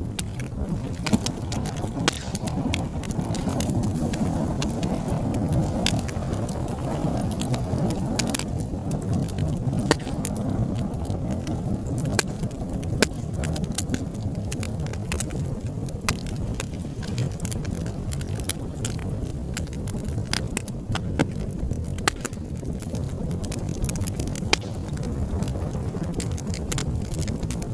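Fire in a fireplace crackling: a steady low rumble of flames with frequent, irregular sharp pops and snaps.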